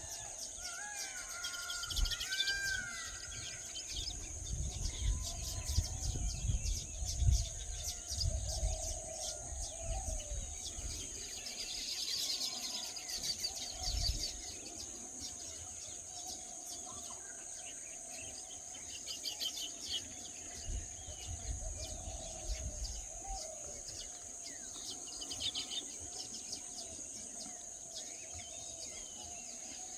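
Outdoor natural ambience: a steady high-pitched drone of insects throughout, with small birds chirping, most clearly in the first few seconds, and bouts of low rumbling.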